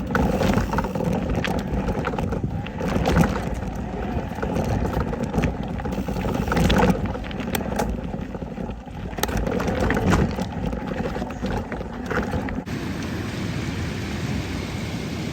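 Wind buffeting the microphone on a moving bicycle, with frequent knocks and rattles from the ride. Near the end it changes abruptly to a steadier hiss.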